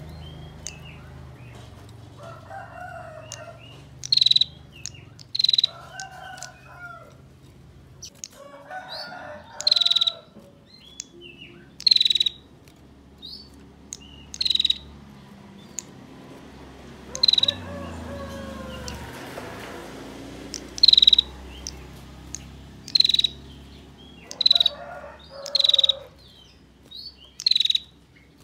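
Female prinia (prenjak) giving short, loud churring calls ('ngebren'), repeated in quick bursts every second or two, over fainter calls of other birds.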